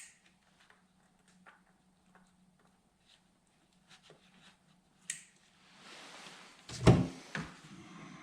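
Workshop handling noises while spark plugs and coils go into an engine: scattered light clicks and taps of tools and parts, a sharper click about five seconds in, then a rustle and a heavy clunk with a second knock near the end.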